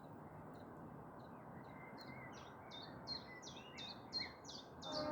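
Small songbirds chirping over steady city background noise; from about two seconds in, one bird gives a fast run of repeated high notes, a few per second, growing louder.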